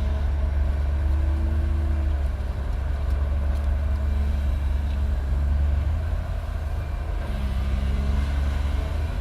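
Heavy diesel engines of recovery vehicles running hard under load during a pull, a steady deep rumble with engine tones that shift slightly in pitch.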